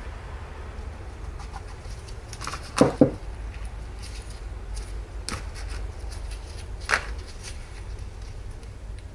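A few metal knocks and clinks of parts being handled: a loud double knock about three seconds in, then single clicks about two and four seconds later, over a steady low hum.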